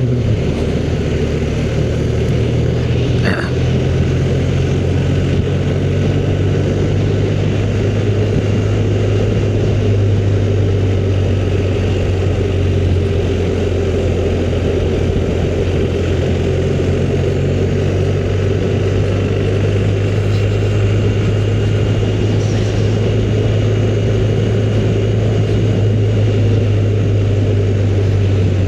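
Motorcycle engine running at a steady cruising speed under way, with road and wind noise over it.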